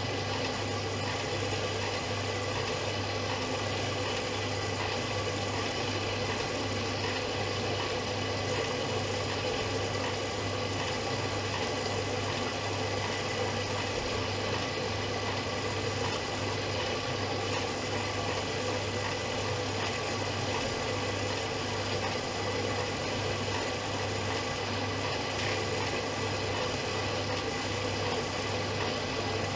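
Privileg Dynamic 7420 washing machine running with a steady, unchanging hum.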